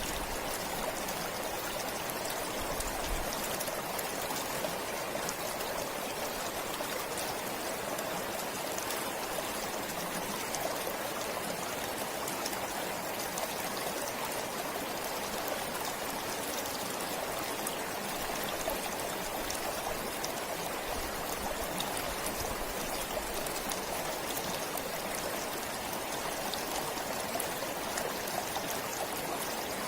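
A forest stream flowing: a steady, unbroken rush of running water.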